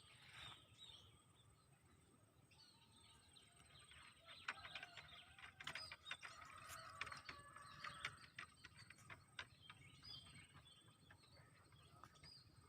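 Faint twittering and chirping of a small tame bird, with scattered sharp clicks. The chattering swells a couple of seconds in and fades again near the end.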